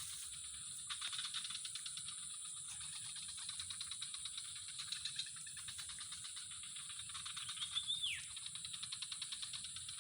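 Outdoor chorus of calling insects: a steady high whine over a fast, even pulsing chirr. About eight seconds in, a single short falling whistle that sounds like a bird call.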